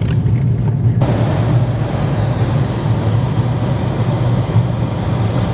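Steady engine and road rumble inside a moving car's cabin, with a broad hiss that grows louder about a second in.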